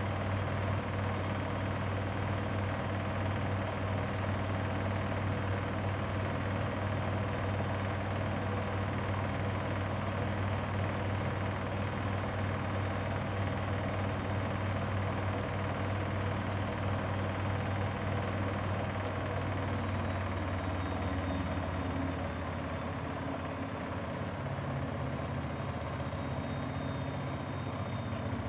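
Grundig washing machine spinning fast, with a steady motor whine over a deep drum hum. About twenty seconds in the whine starts to fall in pitch as the drum slows down at the end of the spin.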